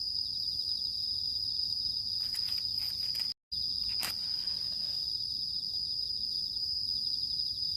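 Chorus of crickets or other insects chirring steadily in a high, finely pulsing tone over a low outdoor rumble, with a few soft rustles and clicks near the middle. The sound cuts out for a split second about three and a half seconds in.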